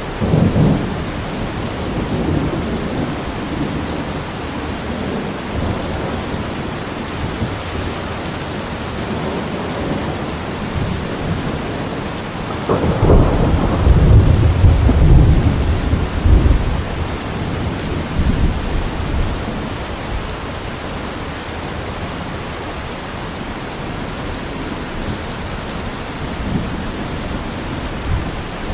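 Steady rain falling during a thunderstorm, with thunder rumbling throughout: a sharp clap just after the start and a long, louder roll of thunder about halfway through.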